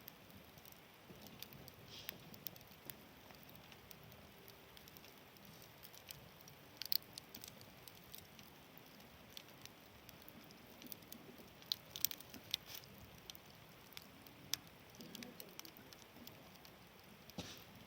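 Campfire crackling: irregular small pops and snaps of burning wood, with a few louder snaps here and there.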